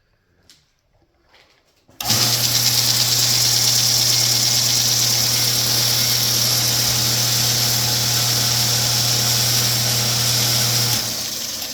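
Kalamazoo 1x42 belt grinder switched on about two seconds in. It runs steadily, with a strong motor hum under the hiss of a coarse 80-grit belt, then is switched off near the end and winds down.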